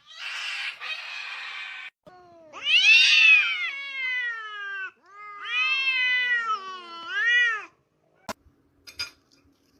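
A domestic cat yowling in two long, drawn-out meows that rise and fall in pitch, after about two seconds of a hissing noise at the start.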